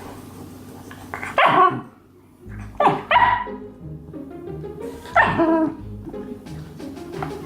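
Shiba Inu barking in three short bursts, wary and agitated at a dog toy, with background music under it.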